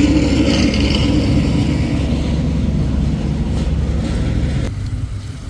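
A car engine running steadily and loudly, then dropping off suddenly near the end.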